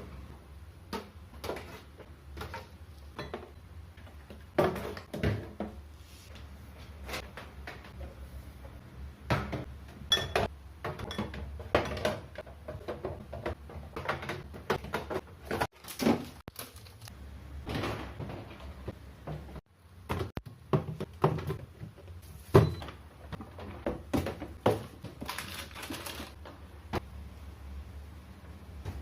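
Refrigerator being cleaned out: irregular knocks, clunks and clatters of its shelves, drawers and containers being handled, taken out and put back, over a steady low hum.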